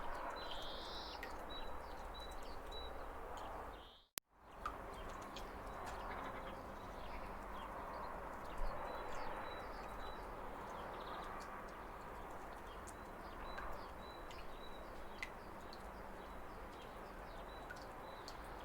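Steady rush of a waterfall with small birds chirping over it in short high calls. The sound cuts out for a moment with a click about four seconds in.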